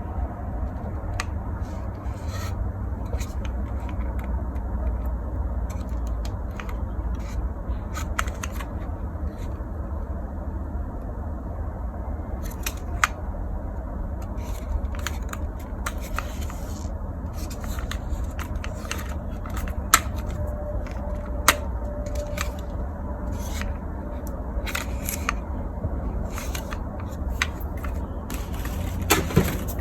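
Plastic toys being handled: scattered light clicks and scrapes over a steady low hum.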